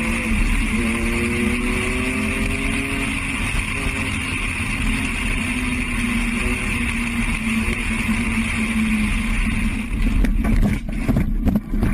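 Vehicle engine and road noise, steady, with faint engine tones gliding slightly in pitch, as picked up by a dashcam. About ten seconds in come several sharp knocks close together.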